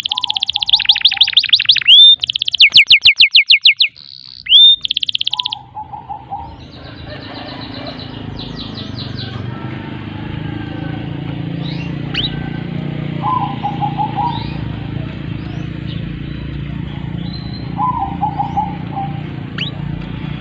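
Domestic canary singing: loud, very fast trills and rolls for the first five or six seconds, then a quieter stretch of softer trills, short whistles and chirps.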